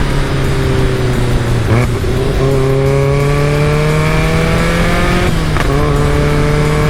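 Caterham Super Seven sports car's engine accelerating through the gears. The revs climb steadily for about three seconds, then fall sharply at an upshift a little after five seconds in, with another shift near two seconds in.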